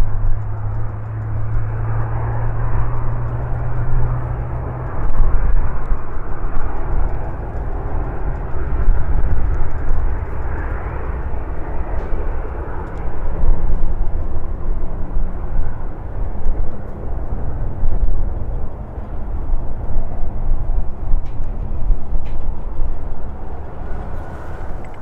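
Jet airliner engines rumbling as an aircraft passes, with a low hum over the first few seconds, while strong gusting wind buffets the microphone in surges.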